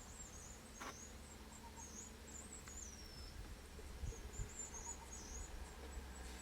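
Faint high-pitched bird twittering, with warbling calls repeating through, a short click about a second in, and two low thumps around four seconds in.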